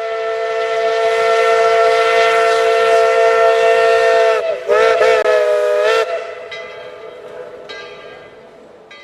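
Multi-chime steam locomotive whistle: one long blast, then a shorter second blast with a wavering pitch, after which the sound dies away slowly.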